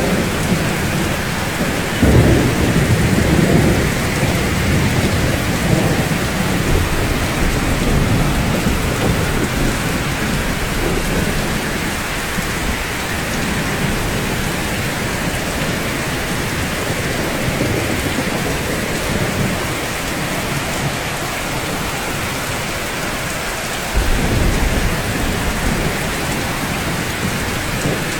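Steady heavy rain falling on rooftops, with low rumbles of thunder: one rolls in about two seconds in, and another starts suddenly near the end.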